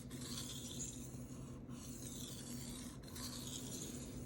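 Steel knife blade being stroked across a Shapton Rockstar 1000 whetstone: a gritty scraping in long strokes, one about every second and a half, with a short break between strokes.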